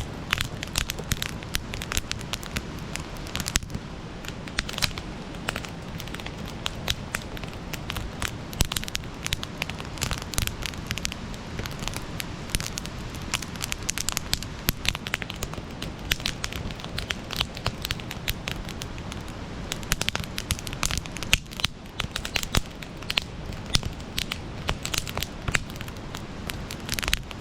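Wood campfire burning, with a steady low rumble of flame and dense, irregular crackles and sharp pops.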